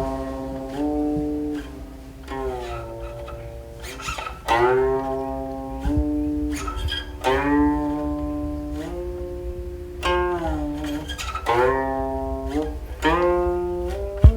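Guqin played solo: single plucked notes and octave-rich chords ring out every second or two, many of them sliding up or down in pitch as they sustain.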